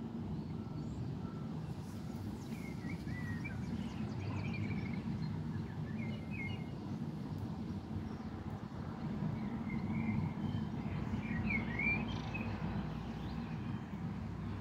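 Small birds chirping in short bursts, several times, over a steady low outdoor rumble.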